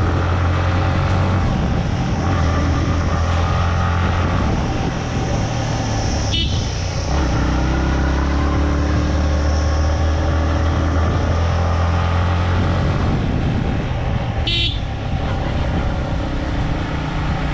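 Motorcycle engine running steadily while riding on a road, with two short sharp sounds about six seconds in and again near the end.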